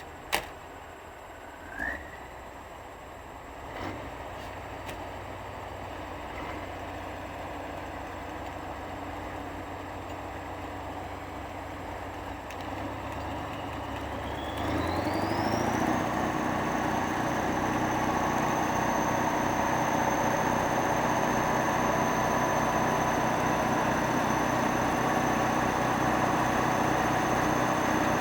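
Kirovets tractor's heavy diesel engine running low, with a sharp click near the start. About halfway through it gets louder, and a whine rises in pitch and then holds steady at a high note.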